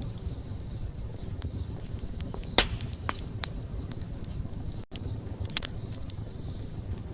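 Wood campfire burning: a steady low rumble of flame with scattered crackles and sharp pops, the loudest about two and a half seconds in. The sound cuts out for an instant about five seconds in.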